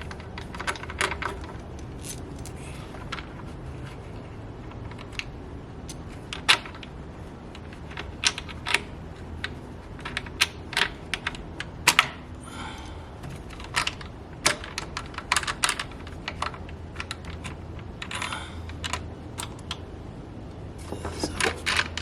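Irregular metallic clicks and clacks of hand tools and loose engine parts being handled while the intake components are taken off, with a few short scraping rattles.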